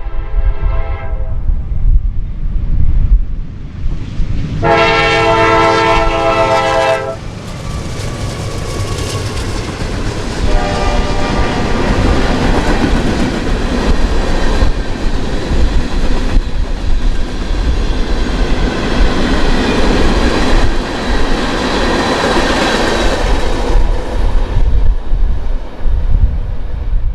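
Train on the Norfolk Southern main line sounding its air horn in blasts, the longest and loudest about five seconds in, then passing close with a steady rush of wheel and rail noise and clickety-clack that fades near the end.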